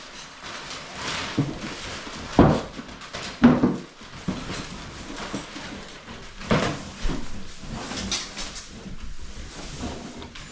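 Irregular knocks and scraping from hands-on repair work, with two loud thumps about two and a half and three and a half seconds in and a few lighter knocks later.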